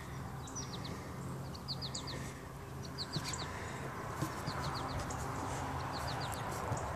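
A songbird repeating a short phrase of three or four quick high chirps about every second and a half, over a faint steady low hum.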